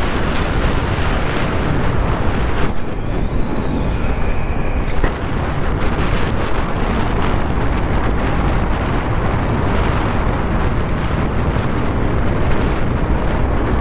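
Wind buffeting the microphone, with road and engine noise from a vehicle travelling along a highway at about 70–80 km/h. The hiss eases for a couple of seconds about three seconds in, then comes back.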